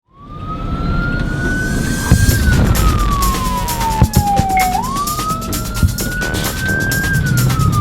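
Fire engine siren sounding a slow wail: the tone climbs for about two seconds and falls for about two and a half, then climbs again, over steady engine and road rumble, with a few sharp knocks.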